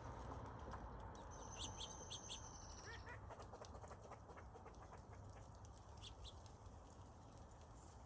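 Faint high bird chirps and a thin, held high whistle lasting about a second and a half, with three quick chips under it and a few short chirps around three seconds in, over a low steady rumble.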